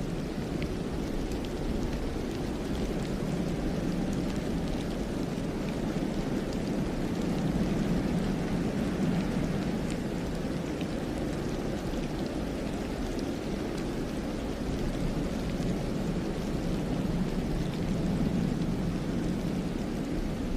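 Wind rushing steadily through pine forest in a snowstorm, swelling in gusts about eight and eighteen seconds in, with faint scattered ticks over it.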